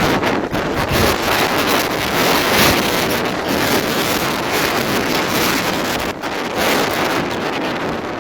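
Airliner jet blast buffeting the microphone: a loud, steady rush of wind noise.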